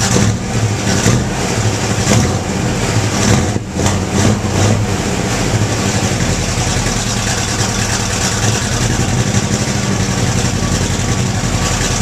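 Cammed Pontiac 400 V8 in a 1977 Firebird running through its exhaust: a few short surges in the first four seconds or so, then a steady idle.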